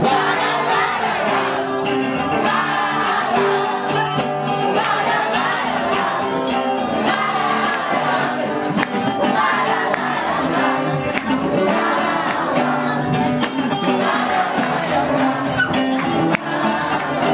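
Gospel worship music with singing over a steady, busy percussion beat.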